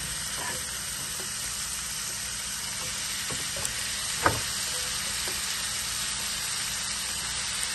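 Steady sizzle of vegetables frying in hot coconut oil as steamed green beans, carrots and peas are spooned into the pan of sautéed onions and coconut. A few light clicks and one sharp knock about four seconds in come from the spatula striking the cookware.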